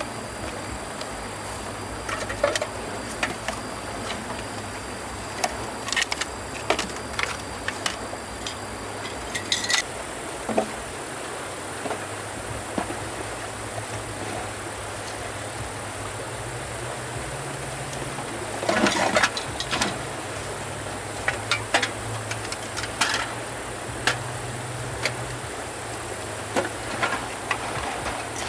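A motor running with a steady low drone, a steady high insect-like whine above it, and scattered clicks and knocks of hard objects being handled, with a cluster of louder clatter about two-thirds of the way through.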